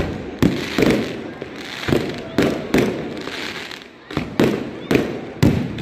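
Aerial fireworks going off in quick succession: sharp bangs about two a second at uneven spacing, with noise filling the gaps between them.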